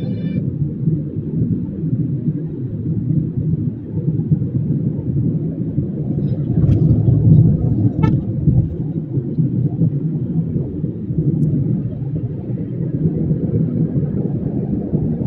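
Steady low rumble of a road vehicle driving: engine and road drone, with a brief faint horn-like toot about eight seconds in.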